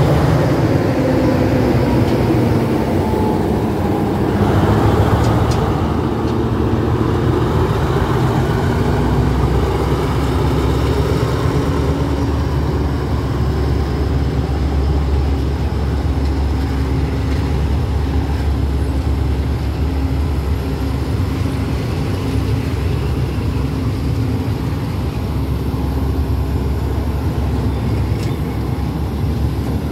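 Diesel locomotive of an express passenger train pulling away, its engine note rising over the first few seconds. Then the passenger coaches roll steadily past with a low rumble of wheels on the rails.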